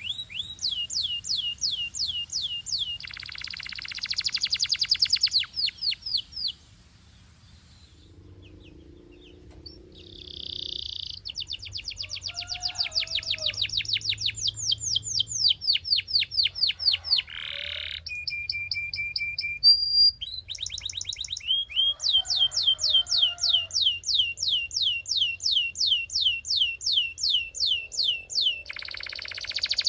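Belgian canary singing: long trills of rapid, evenly repeated falling notes, broken by a pause of a few seconds about a quarter of the way in, with a short held steady note near the middle.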